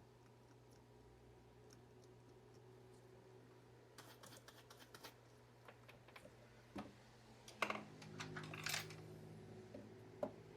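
Light clicks and taps of small hand tools being handled and set down, over a faint steady electrical hum. The clicks start about four seconds in and grow into a louder cluster of clicking and scraping near the end.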